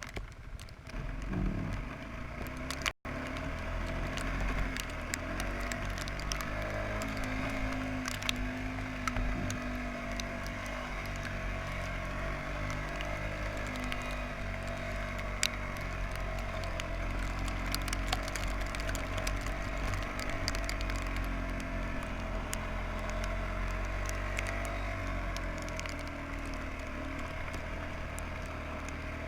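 Suzuki Quadrunner 300 ATV's engine running as it is ridden through deep snow, its pitch drifting up and down with the throttle, with scattered small clicks and crackles. The sound drops out for an instant about three seconds in.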